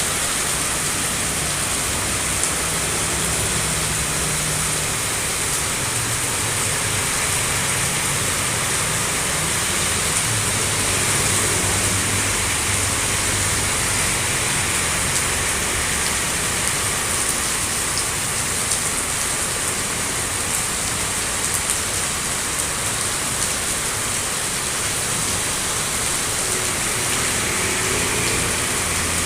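Heavy, wind-driven rain pouring down steadily: a dense, even hiss with no let-up.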